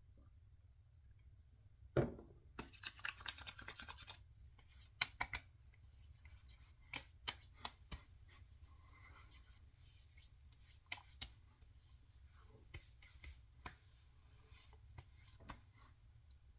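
Faint handling sounds of an aftershave splash being put on: a single knock about two seconds in, a quick rapid run of rubbing right after, then scattered light clicks and taps.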